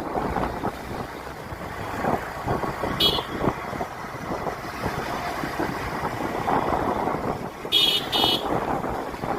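Road traffic running on a highway, a steady rumble of engines and tyres, with a short high-pitched horn toot about three seconds in and two quick toots near the end.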